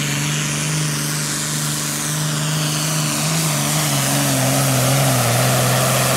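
Turbocharged diesel engine of a John Deere Super Farm pulling tractor running hard at high revs. Its pitch holds steady, then sags slightly about two-thirds of the way through, over a high whine that slowly falls in pitch.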